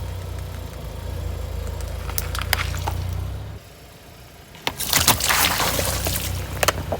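A car's engine runs low and steady while its tyre rolls onto objects, with a few sharp cracks. About five seconds in comes a loud burst of crunching and cracking as the tyre crushes them.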